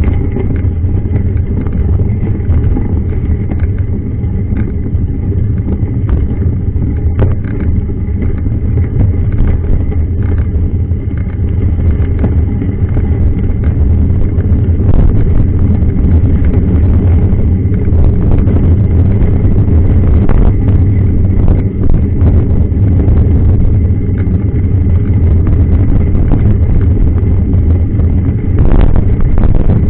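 Steady low rumble of wind and road noise on a camera riding along with a mountain bike on a dirt trail, with many scattered clicks and rattles from the bike over rough ground.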